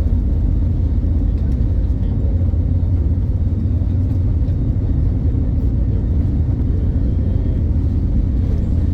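Steady low rumble of an Airbus A320neo's engines and airflow heard inside the passenger cabin during takeoff.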